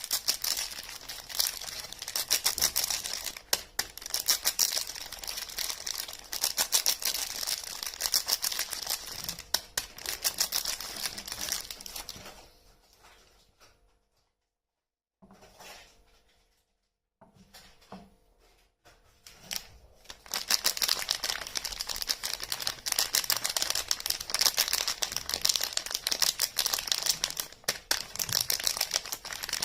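Soap bar wrappers being torn open and crinkled by hand, a dense run of fast crackling. It dies down about twelve seconds in, with only a few scattered rustles, then starts up again about twenty seconds in.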